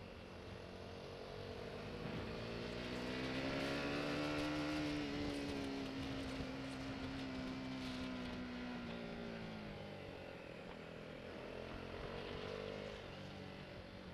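Motorcycle engine rising in pitch as the throttle opens, then dropping slowly as it eases off, with a second short rise near the end. Wind rush and road noise on the microphone underneath.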